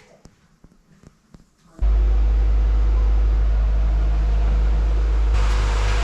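A car engine running loud and steady, with a deep, even hum. It cuts in suddenly about two seconds in, after a few faint clicks, and grows brighter and hissier near the end. It is called healthy-sounding.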